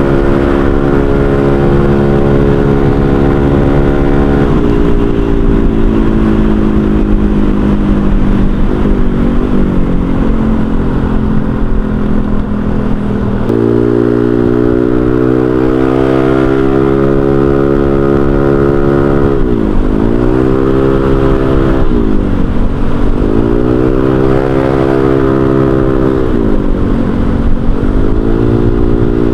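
Honda Vario 125 scooter's single-cylinder four-stroke engine running through a cheap aftermarket racing exhaust while riding. The engine holds steady revs, drops in pitch about four seconds in and jumps up again about halfway. Toward the end the throttle is rolled off and back on four times, the pitch dipping and rising each time.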